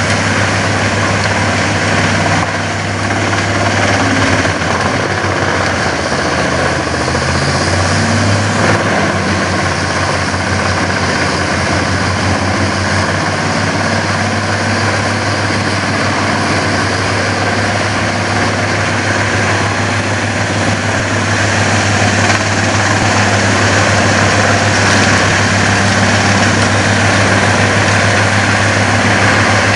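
Dutch Dragon EC10075 woodchipper running steadily with a deep, even engine hum, getting slightly louder about two-thirds of the way through.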